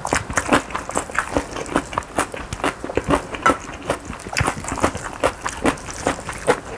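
Spoon mixing bibimbap in a bowl: quick, irregular wet squelches of sticky rice and sauce, with scrapes and taps against the bowl several times a second.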